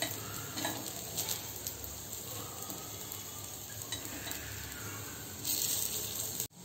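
Paddu sizzling in oil in a paddu pan while a metal spoon turns them, scraping and clicking against the pan's wells. The scraping gets louder for a moment near the end.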